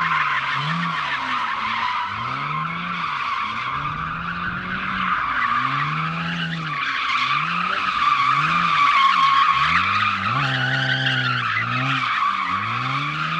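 A car doing donuts: the tires squeal without a break while the engine revs rise and fall over and over, about once every second or so. The squeal grows louder about two-thirds of the way through.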